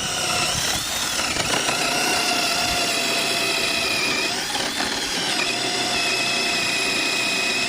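Power drill running steadily with a high whine, its pitch dipping briefly twice.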